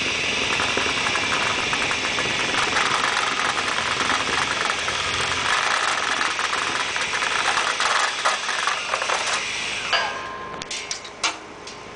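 Dryer vent cleaning equipment running in the vent duct, a steady rattling hiss. It stops about ten seconds in, followed by a few light clinks.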